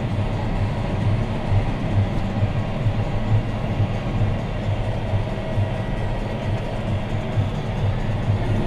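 John Deere 6215R tractor's six-cylinder diesel engine running under steady load while pulling a plough, heard from inside the cab: a steady low drone with a fast, even pulsing beat.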